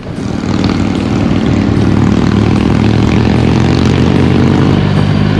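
2008 Harley-Davidson V-twin engine running hard, its note rising steadily as the bike accelerates, with a change in pitch near the end.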